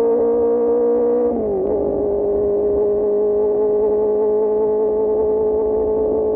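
QJMotor SRK600 inline-four with an Austin Racing GP1R exhaust running at high, steady revs. About a second and a half in, the pitch drops a little as the revs come down, then holds steady.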